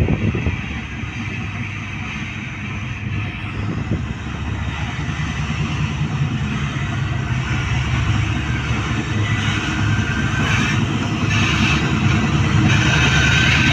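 Khyber Mail passenger train running on the track with a steady low rumble that grows gradually louder.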